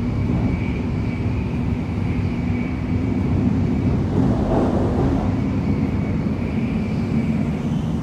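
Running noise of an N700S Shinkansen at speed, heard inside the car by the door: a steady low rumble with a faint hum and a thin high tone, growing louder for a moment about halfway through.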